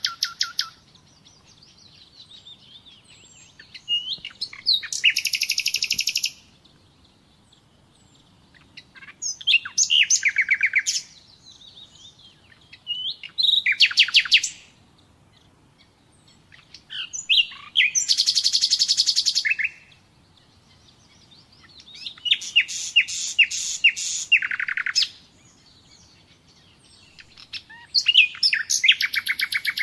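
A nightingale singing in separate phrases of rapidly repeated high notes and trills, each phrase lasting a second and a half to three seconds, with a pause of two to three seconds between phrases.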